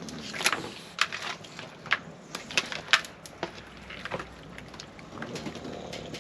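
Irregular sharp clicks, taps and knocks, about a dozen spread unevenly, as of objects being handled and set down.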